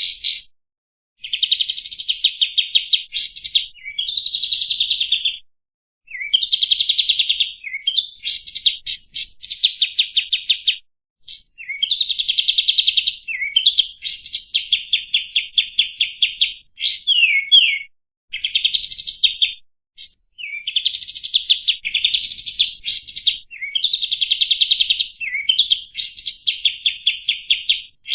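Kapas tembak songbird singing loud, fast trills: phrases of quickly repeated high notes, each a few seconds long, broken by brief pauses and short rising and falling slurs.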